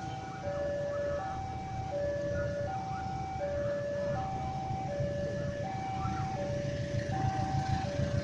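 Railway level-crossing warning alarm sounding a two-tone electronic ding-dong, high and low notes alternating steadily about every two-thirds of a second, over a low vehicle rumble; it signals that a train is approaching.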